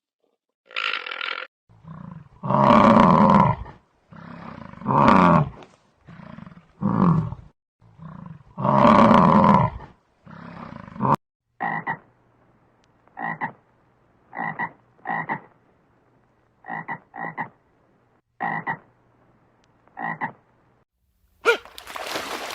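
Animal calls: a series of loud, deep calls, each about a second long, then after a cut a run of short, higher calls about a second apart, with a steady hiss starting near the end.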